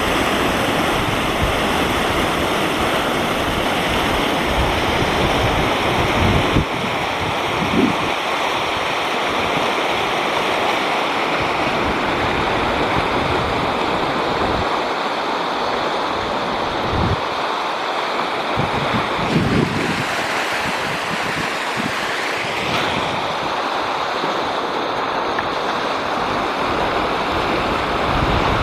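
River in flood: fast floodwater rushing with a steady, loud roar. Wind buffets the microphone a few times, around a quarter of the way in and again past the middle.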